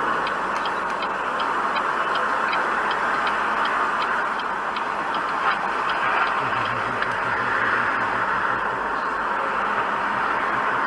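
Steady road and engine noise of a moving car, with a light quick ticking of about four ticks a second that fades out after the first few seconds.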